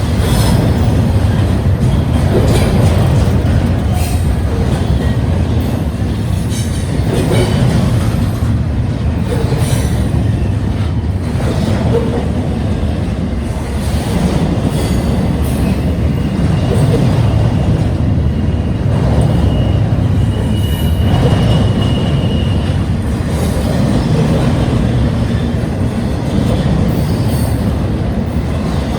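Double-stack intermodal train cars rolling past: a steady rumble of steel wheels on rail with scattered clicks, and a thin, high wheel squeal from about 16 to 22 seconds in.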